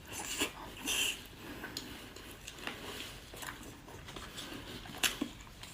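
Quiet mouth sounds of someone chewing a soft, glutinous rice sausage, with a few faint wet smacks near the start, about a second in and about five seconds in.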